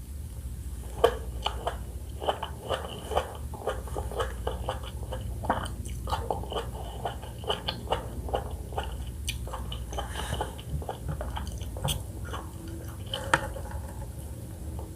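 Close-miked chewing of pomelo flesh: irregular wet, juicy clicks and smacks of the mouth biting and chewing the segments, with a sharper click about a second in and another near the end.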